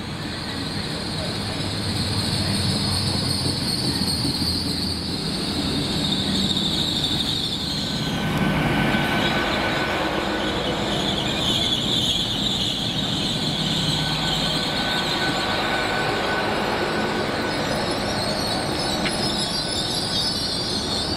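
A train running along the track with its wheels squealing on the rails: a high squeal that drifts down in pitch and back up again over the steady rumble of the train.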